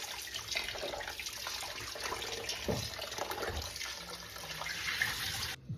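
Kitchen sink tap running, water splashing over raw chicken being rinsed under it. The water cuts off abruptly near the end.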